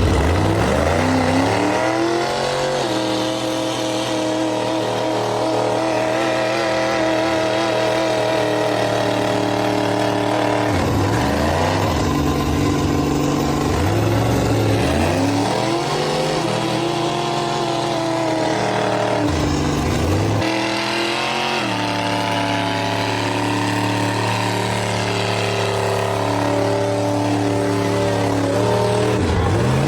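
A big truck engine revving hard and held high, its pitch falling away and then climbing back up several times.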